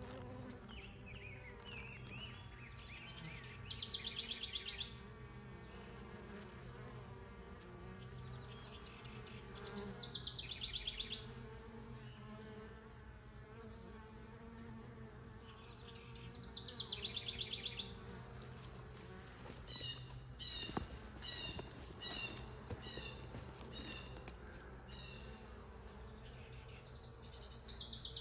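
Honeybees buzzing steadily at a hive entrance. Over the hum, a bird sings a short, high, trilled phrase about every six seconds, and gives a string of short chirps about twice a second around two-thirds of the way in.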